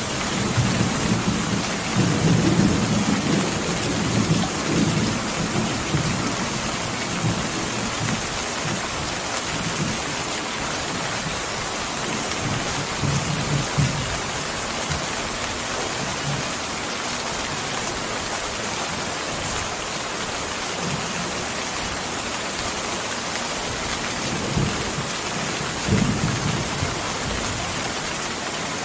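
Steady heavy rain with low rolls of thunder, the thunder strongest in the first few seconds and swelling again briefly around the middle and near the end.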